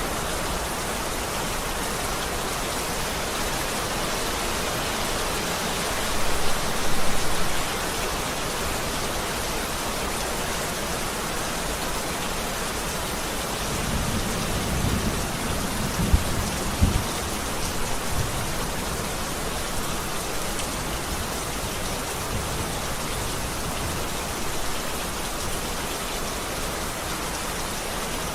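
Heavy rain falling steadily, with a louder surge about six seconds in and thunder rumbling low, with a few jolts, around the middle.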